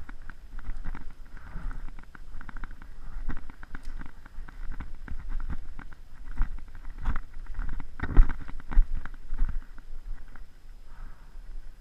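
Footsteps and rustling through dry leaf litter and brush: irregular crunches and snaps, loudest about seven and eight seconds in, over a low rumble on the microphone.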